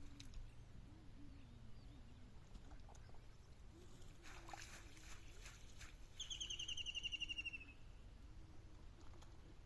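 A bird sings one rapid trill, about a second and a half long, falling slightly in pitch, over faint outdoor background noise. Just before it comes a short patch of light clicking or rustling.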